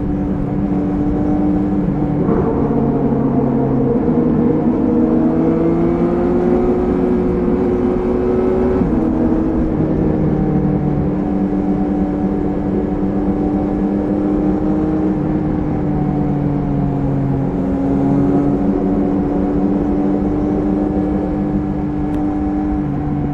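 Triumph Speed Triple 1050 RS's inline three-cylinder engine running at a steady cruise. Its pitch climbs gently from about four seconds in, drops at about nine seconds, then holds level over a steady rush of noise.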